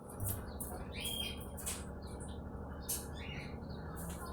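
Birds chirping in short repeated calls, with a few sharp clicks, over a steady low background hum.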